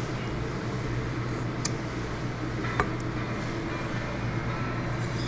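A steady low machine hum with a fan-like rush, broken only by two faint clicks in the middle.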